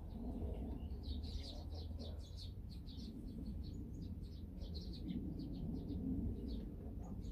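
Small birds chirping outdoors: many short, high chirps in quick succession, over a steady low rumble.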